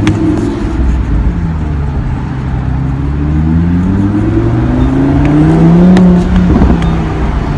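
Lamborghini Huracan's V10 engine pulling under acceleration. Its note falls briefly, then climbs steadily to its loudest about six seconds in, and drops near the end at a gear change.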